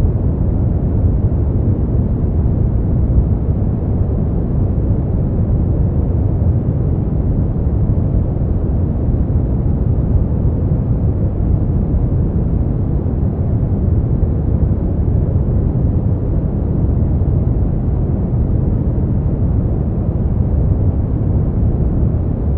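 Steady, unchanging sleep-aid noise, deep and bass-heavy, with almost nothing in the high end: a dull rushing rumble rather than a bright hiss.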